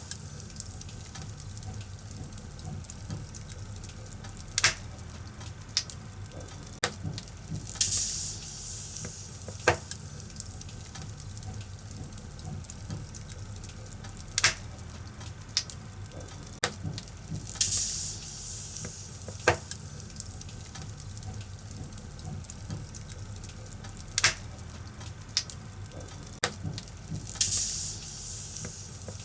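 Wood fire burning in a fireplace, crackling: sharp pops every second or two over a low steady rumble, with a hissing surge about every ten seconds.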